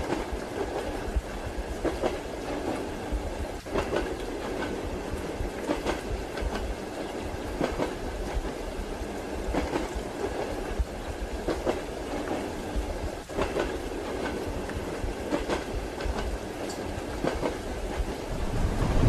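Railway carriage wheels clacking over rail joints, irregular knocks every second or two over a steady rushing rumble of the running train. The low rumble grows louder near the end.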